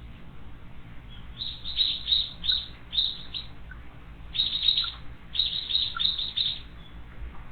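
Small wild birds chirping: short high calls that come in quick runs of several at a time.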